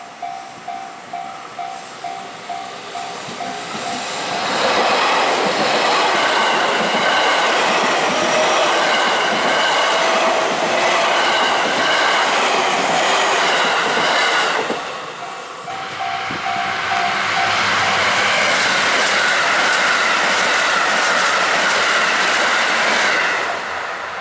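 Japanese level-crossing bell ringing in even strokes, about two a second, then an electric commuter train passing close with wheels clattering over the rail joints for about ten seconds. The bell comes through briefly again and a second train passes, with a rising motor whine, until shortly before the end.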